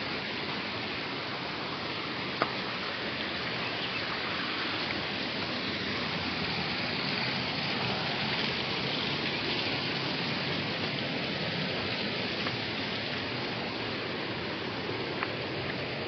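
Steady rush of flowing water, with a single sharp click about two and a half seconds in.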